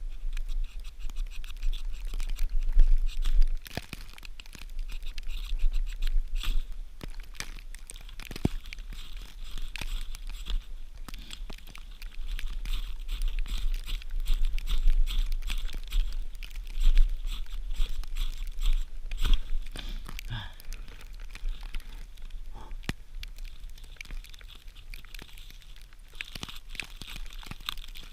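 Hands crumbling, tearing and crunching dry tinder such as birch bark and dry plant material into fine particles to catch a ferro rod spark, making a long run of irregular crackles, with a low wind rumble on the microphone.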